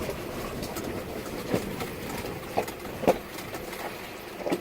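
Vehicle travelling over a rough road: steady road noise, with four sharp knocks and rattles spread through it.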